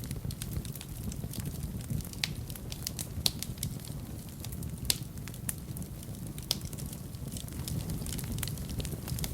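Fire burning in a fireplace: a steady low rumble of flames with frequent sharp crackles and pops, two louder snaps around the middle.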